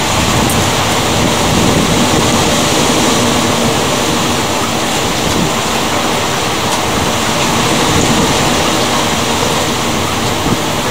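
Steady, loud rush of heavy rain and wind during a thunderstorm, with no thunder clap standing out.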